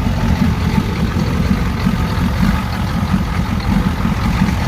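Ford 7.3 IDI V8 diesel engine idling with a rapid, uneven low pulsing. The owner fears the engine has blown.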